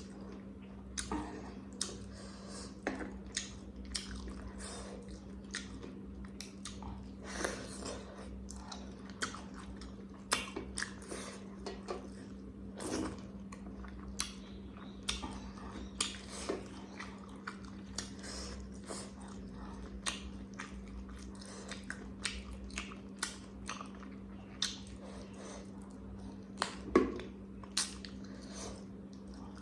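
Close-miked chewing and eating of a rice-and-curry meal: irregular wet smacks and clicks of a mouth at work, one louder click near the end, over a steady low hum.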